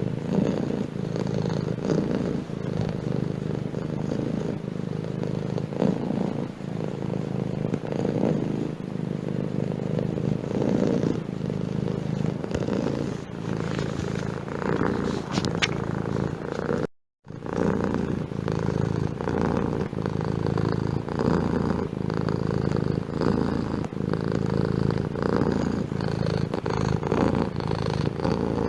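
Domestic cat purring steadily in a continuous, pulsing rumble, broken once by a split-second gap of silence about two-thirds of the way through.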